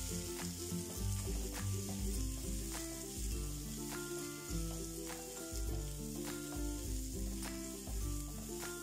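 Sliced onions and ginger sizzling in hot oil in a nonstick wok as they are stirred with a wooden spatula. Background music with a bass line and a beat about once a second plays under the sizzling.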